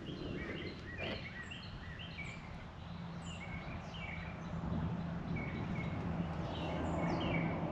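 Songbirds chirping, with quick short notes repeated throughout over a steady low hum.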